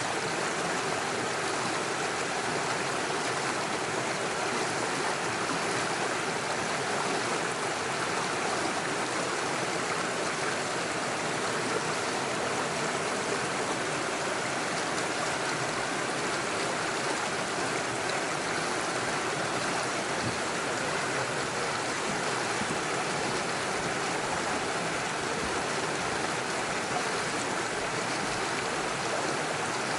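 Small mountain stream rushing and splashing over stones and little waterfalls, a steady, unbroken flow of water.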